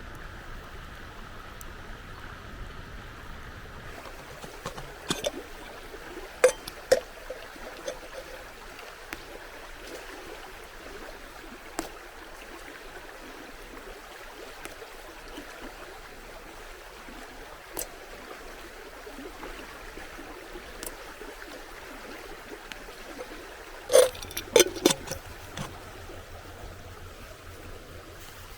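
River water flowing steadily, with a few sharp knocks about five to seven seconds in and a quick cluster of knocks near the end.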